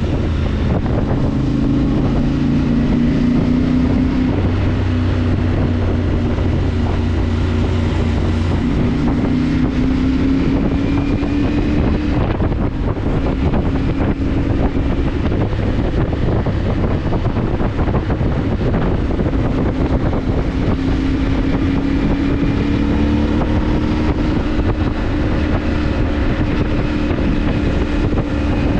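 CFMoto motorcycle engine running steadily under way, its note rising and falling gently with the throttle, with wind rushing over the microphone.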